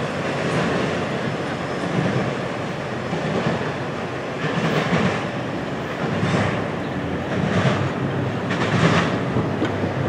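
Double-stack intermodal container cars of a freight train rolling on the rails: a steady rumble of steel wheels on track, with a few sharper clacks in the second half.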